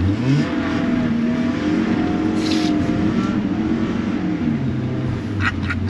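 Car engine under way, revving up sharply at the start, holding steady, then its pitch dropping a step about four and a half seconds in, over road and tyre noise.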